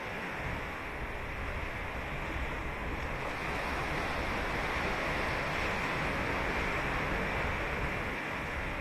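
Ocean surf breaking and washing up the beach, a steady rush of noise that swells a little through the middle.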